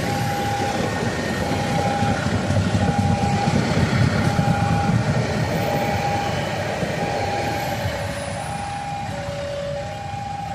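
A train rumbling past on the rails, loudest in the middle and easing off near the end, while a railway level-crossing warning signal beeps steadily, about one tone every second and a half, the tone dropping lower near the end.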